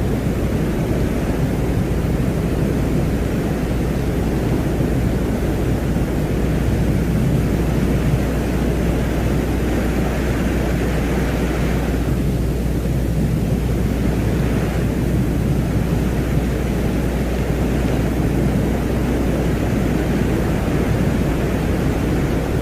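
A steady, dense low rumble like wind or distant thunder, presented as the sound of Venus in a space-ambient soundscape. A fainter hiss above it thins briefly about twelve seconds in.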